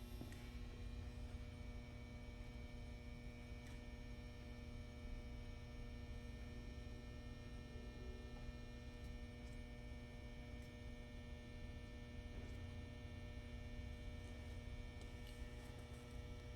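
Faint, steady electrical hum made of several constant tones over a low rumble, with no distinct events.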